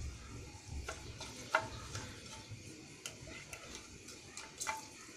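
Whole spices (bay leaves, cardamom, cinnamon, cloves, peppercorns) frying in a little hot oil in a pan: a faint sizzle with scattered small pops and ticks, being fried until fragrant.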